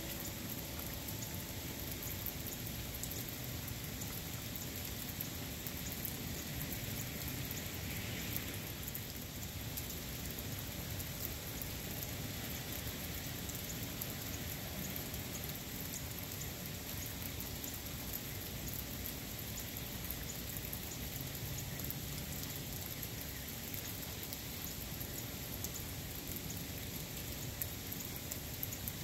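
Steady rain falling: an even, unbroken hiss of raindrops that holds at one level throughout.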